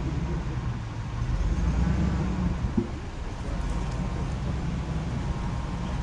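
Motor vehicle driving, a steady low engine and road rumble, with a brief rising-and-falling whine about two seconds in and a single knock just before three seconds.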